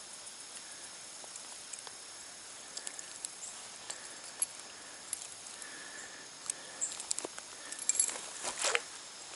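Faint outdoor ambience of steady high-pitched insect chirring, with scattered small clicks and rustles and a few louder ones near the end.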